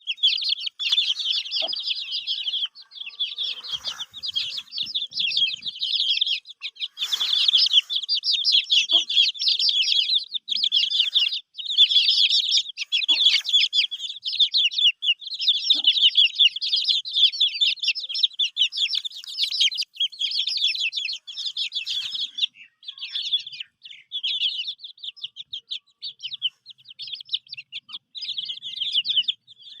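A brood of chicken chicks peeping continuously, many rapid high-pitched chirps overlapping, with a few faint knocks.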